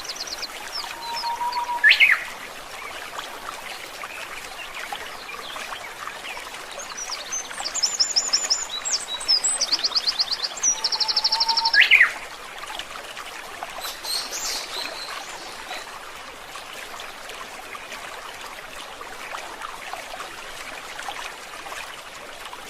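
Forest stream flowing steadily, with wild birds calling over it: a sharp rising note about two seconds in, a run of fast high trills in the middle, and another sharp rising note that ends them.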